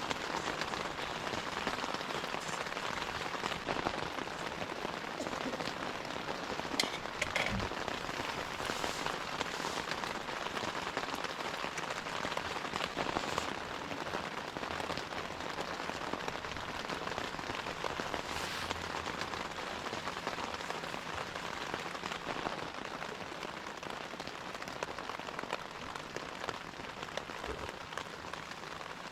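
Gentle, steady rain: an even hiss of falling rain with scattered single drop ticks.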